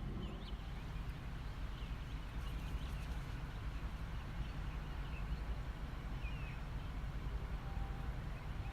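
Outdoor ambience: a steady low rumble, with a few faint, short, high chirps scattered through it.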